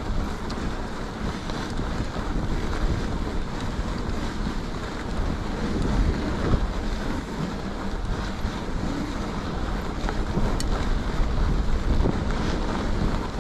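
Wind buffeting the microphone of a camera on a mountain bike being ridden, over a steady rumble of tyres rolling on packed snow, with an occasional faint click.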